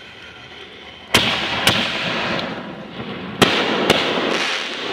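Aerial firework shells bursting: two sharp bangs about a second in, half a second apart, and two more about three and a half seconds in. Each pair trails off slowly rather than stopping dead.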